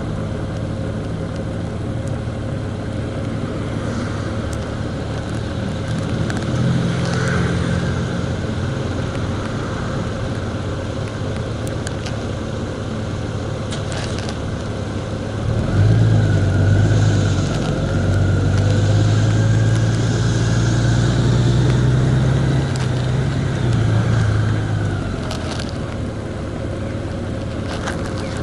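A vehicle's engine running on the move, with steady road and wind noise. About halfway through the engine pulls harder and louder for several seconds, then eases off.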